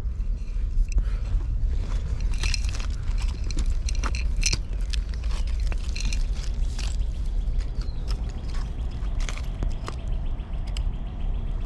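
Scraping and irregular sharp clicks and knocks of digging and handling in dirt and buried glass, over a steady low rumble.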